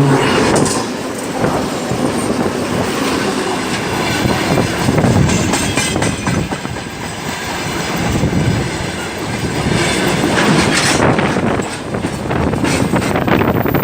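Freight train of tank wagons behind a 2TE116 diesel locomotive rolling past close by, its wheels clattering steadily over the rails.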